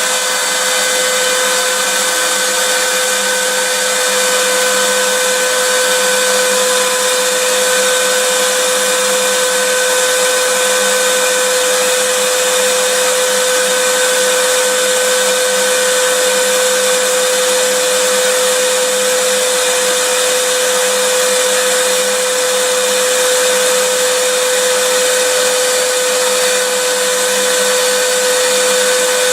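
Vacuum cleaner running steadily: an even rush of air with a constant motor whine, never changing in speed or level.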